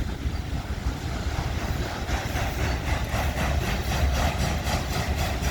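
Freight cars of a long CN freight train rolling past with a steady low rumble; from about two seconds in, a rapid, even clatter of wheels joins it.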